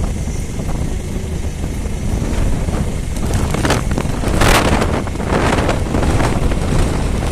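Passenger motorboat engine running with a steady drone, with wind buffeting the microphone in gusts, the strongest about four and a half seconds in.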